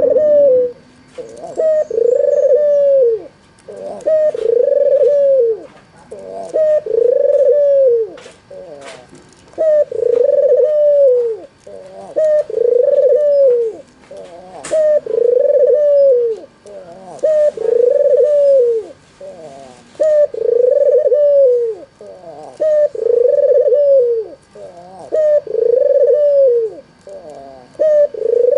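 White, red-eyed (albino) ringneck dove cooing over and over, about one coo every two seconds, each coo a single note that rises and then falls.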